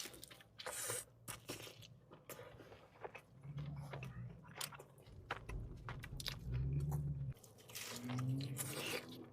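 Close-up eating of a buffalo chicken pizza: bites into the crust and wet, crunchy chewing, with a few low hums in between.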